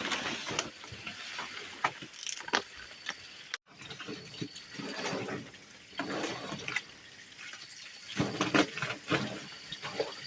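Water splashing and running, with many sharp clicks and knocks from handling things in the water, loudest as a cluster near the end. The sound drops out abruptly for an instant about a third of the way in.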